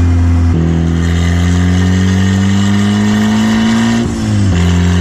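Turbocharged Mazda Miata's four-cylinder engine pulling through a gear, its revs rising steadily for about three seconds. The revs drop quickly at a gear change about four seconds in, then the engine runs on at an even pitch.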